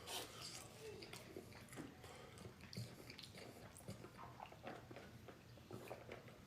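A person chewing food, faint irregular crunches and mouth clicks.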